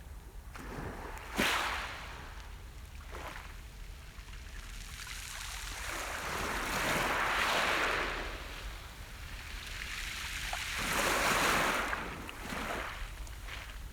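Sea waves breaking on the shore: a sharp splash about a second and a half in, then two longer washes of surf that swell and fade, over a steady low rumble.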